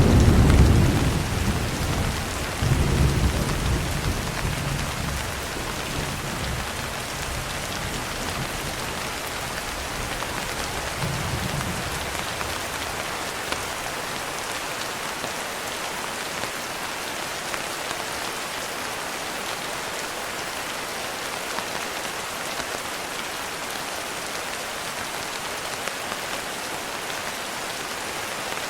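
Steady heavy rain, with a thunderclap right at the start that rolls on, swells again about three seconds in, and rumbles away over roughly ten more seconds.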